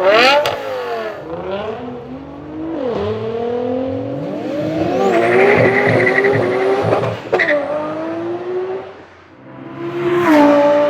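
Supercar engine revving hard: quick blips of the throttle at first, then a long acceleration with the pitch climbing and stepping down at shifts, a thin high whine riding over it. The sound fades about nine seconds in, and another loud rev rises near the end.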